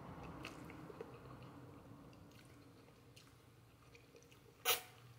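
A person chewing instant noodles, with faint wet mouth clicks. One short, sharp sound comes near the end.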